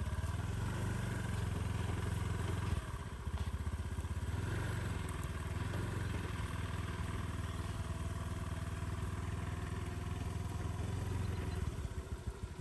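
Motorcycle engine running steadily while being ridden, with a short dip in level about three seconds in and a drop near the end.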